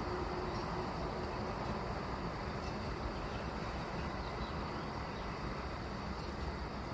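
Dawn outdoor ambience: a steady low rumble of distant traffic with a few faint bird chirps over it.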